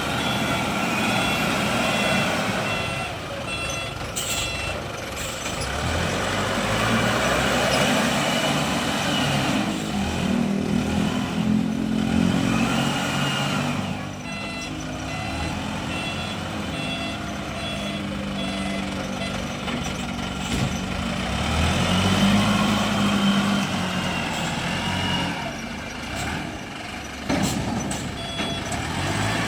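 Wheel loader's diesel engine working, its pitch rising and falling several times as it revs under load, with the reversing alarm beeping in spells.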